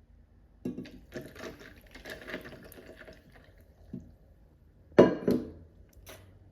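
Liquid splashing with small clattering handling sounds, then a sharp loud knock and a second one just after it about five seconds in.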